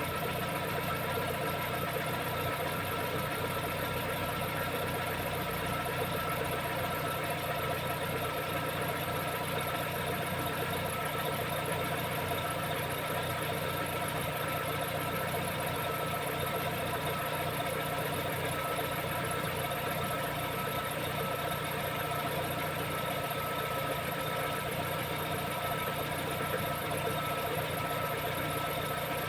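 Lada Vesta SW's engine idling with a steady squeaking chirp from the alternator belt, a sound that resembles a chirping bearing. It is typical of this belt after a long cold overnight standstill and fades as the engine warms up; silicone on the belt quiets it for a while.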